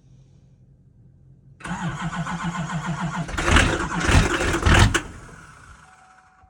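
LB7 Duramax 6.6 L V8 turbo-diesel cold start: the starter cranks rhythmically for under two seconds, then the engine fires loudly and unevenly about three and a half seconds in. The sound drops away abruptly about five seconds in.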